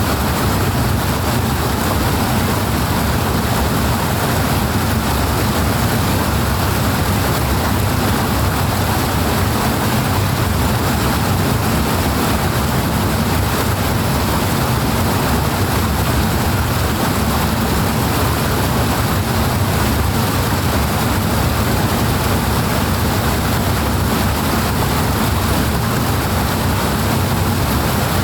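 Fast-flowing water rushing steadily, a loud, even, unbroken noise with a deep low rumble underneath.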